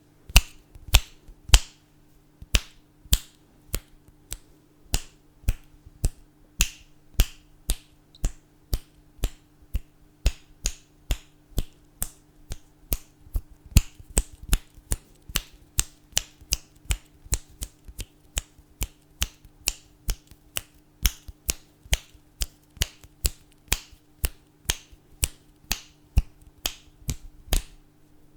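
Fingers snapping repeatedly, about two to three snaps a second, in a steady run with slightly uneven spacing and loudness.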